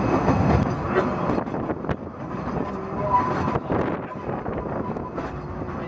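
Open carriage of a 2 ft narrow-gauge train running along the track, its wheels rumbling with irregular clicks and knocks over the rails.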